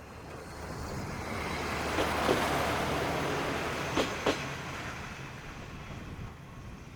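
Kominato Railway KiHa 200-series diesel railcar passing, its sound swelling and fading away, with the wheels clicking over rail joints in two quick pairs near the loudest point.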